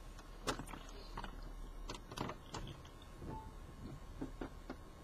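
A handful of faint, irregular clicks and knocks, about seven in all, over a low steady hum.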